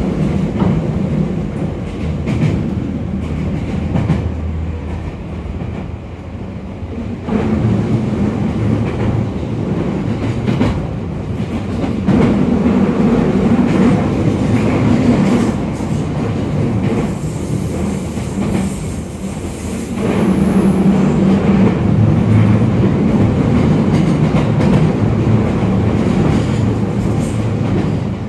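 JR East E231-0 series electric commuter train running along the track: a steady rumble of wheels on rail with some clickety-clack, stepping up in loudness about seven, twelve and twenty seconds in.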